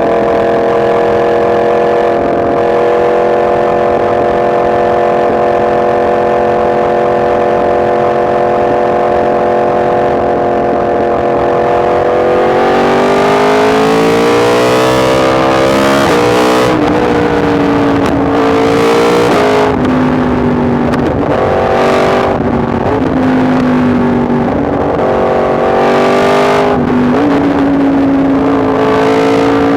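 Yamaha MT-10 SP's crossplane inline-four engine on a ride, holding a steady pitch for about twelve seconds, then accelerating. Through the rest its pitch rises and falls several times with brief breaks.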